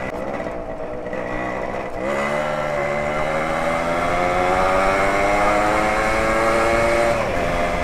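Motorcycle engine pulling under throttle while riding, its pitch rising slowly for about five seconds from about two seconds in, then easing off near the end.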